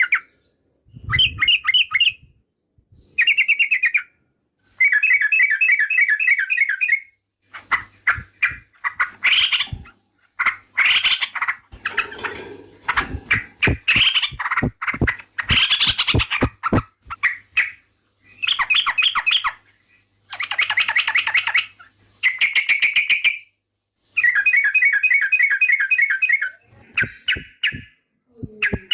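Yellow-vented bulbul (trucukan) singing: repeated short bursts of quick, chattering notes, each lasting a second or two with brief gaps between, and a busier run of sharp, clipped notes in the middle.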